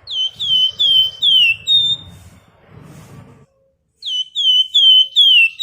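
A flamboyan songbird calling: two runs of clear whistled notes, each run four or five quick notes that slide down in pitch and end on a flatter, held note. The first run starts right away, the second about four seconds in.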